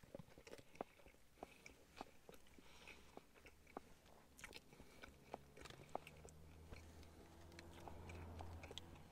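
A man chewing a big mouthful of steak sandwich: faint, irregular wet clicks and smacks of the mouth. A low drone comes in near the end.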